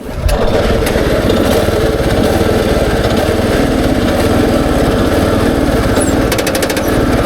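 The petrol engine of a Kubota SPJ400 rice transplanter running steadily, coming in abruptly just after the start, while the machine is test-run after a planting fault.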